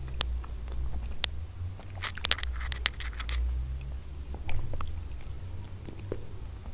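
Close-miked chewing and biting on a chicken wing, with wet mouth clicks and a dense run of crisp crackles about two seconds in. A steady low hum sits underneath.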